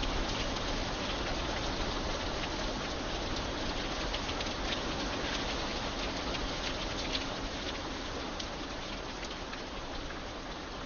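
Steady rain falling, an even hiss with many individual drops ticking close by.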